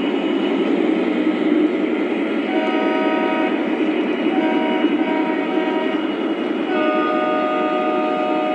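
Lionel model Santa Fe diesel locomotives running over the track with a steady rumble, while the locomotive's sound system blows its horn three times: two blasts of about a second each, then a longer one near the end.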